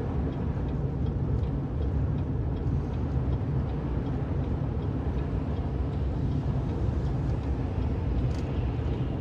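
Steady road and tyre noise heard from inside a moving car's cabin, with the tyres running through slushy snow.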